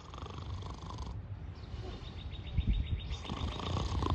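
SEPTA regional rail train approaching a station, a low rumble throughout. A fast, high ticking runs through the middle.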